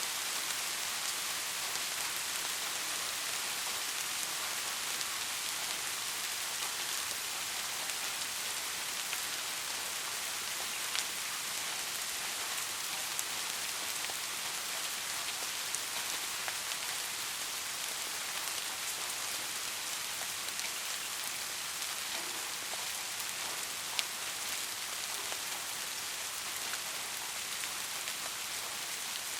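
Steady rain falling on foliage: an even hiss with scattered sharper drop hits.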